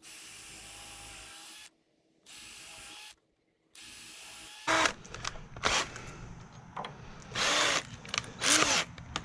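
Power drill working on 2x4 lumber: three short, steady runs of about a second each with brief stops, then louder, uneven bursts from about halfway through.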